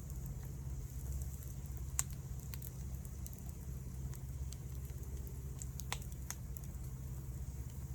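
Wood fire burning, with sparse sharp crackles and pops over a steady low rumble. The loudest pop comes about two seconds in, and another about six seconds in.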